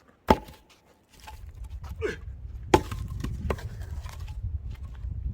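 Firewood logs being thrown down and knocked together: a loud sharp knock just after the start, smaller knocks, and another loud knock near the middle. A low rumble starts about a second in and continues underneath.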